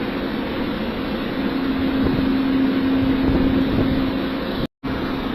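Steady wind noise with a constant low machine hum underneath, broken by a brief moment of dead silence near the end.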